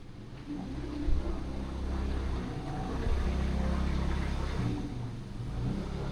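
Low motor-vehicle rumble with a steady engine-like hum, coming in about half a second in and holding.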